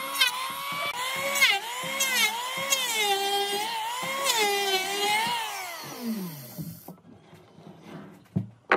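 Electric power tool motor whining, its pitch wavering up and down, then winding down with a falling pitch about six seconds in. A short click near the end.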